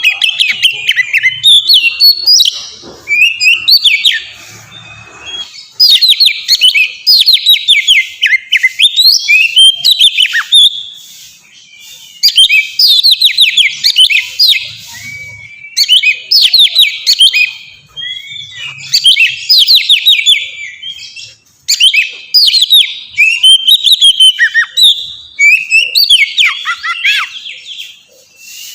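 Oriental magpie-robin (kacer) in full, loud song (ngeplong): phrases of rapid, high notes a few seconds long, separated by brief pauses.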